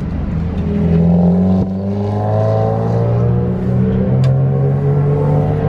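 A road vehicle's engine running while driving. Its pitch rises as it accelerates about a second in, then holds fairly steady.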